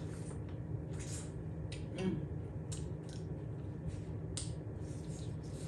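Close-up mouth sounds of biting and chewing sauced corn on the cob: scattered short wet clicks and crunches as the kernels come off the cob.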